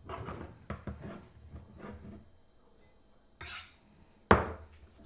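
Kitchenware being handled on a counter: a run of light clatters and knocks, a short scraping rustle, then one loud sharp clank with a brief ring a little past four seconds in.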